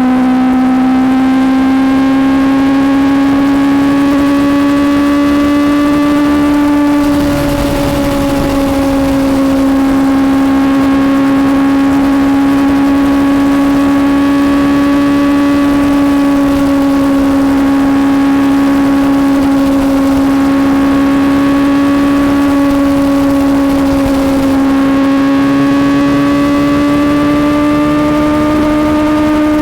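Suzuki GSX-S750's inline-four engine running under load at a steady, high-pitched note while riding at speed, its pitch holding nearly level, sagging slightly about seven seconds in and dipping then rising again near the end. Wind and road rush underneath.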